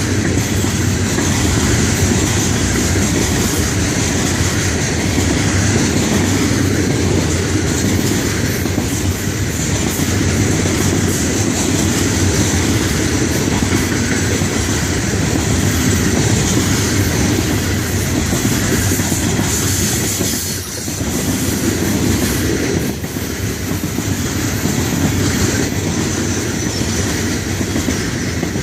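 Freight cars of a long Florida East Coast Railway rock train rolling past at steady speed, steel wheels running over the rails, with a brief lull about 20 seconds in.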